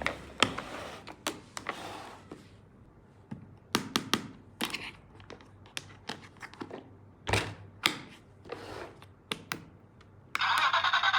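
Plastic toy tools and their packaging being handled: scattered clicks, taps and light knocks. Near the end a louder continuous sound begins.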